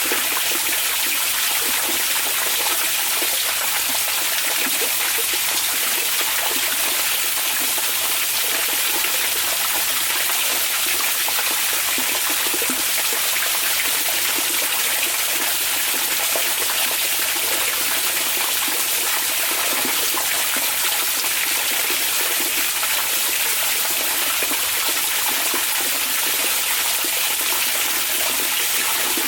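Hot spring water running steadily into an onsen bath, an even, unbroken rush of water.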